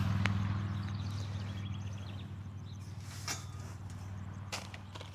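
A steady low engine drone that slowly fades, with a few sharp clicks or taps on top, about three of them.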